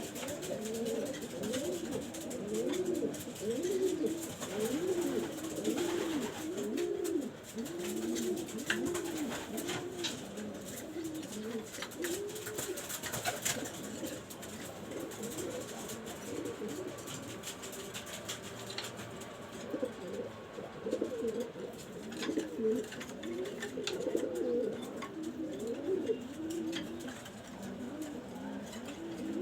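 Several domestic pigeons cooing, low arched coos overlapping one another in a steady chorus that thins out midway and picks up again later, with faint scattered clicks.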